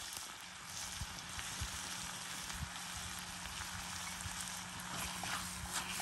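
Food frying in hot oil: a steady sizzle with scattered small crackles.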